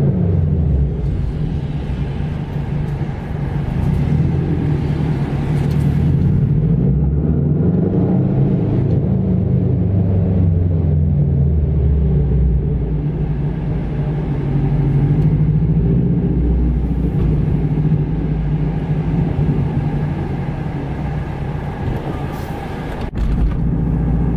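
Subaru WRX's turbocharged flat-four engine running as the car drives, its pitch rising and falling several times with acceleration and easing off. A sharp click near the end.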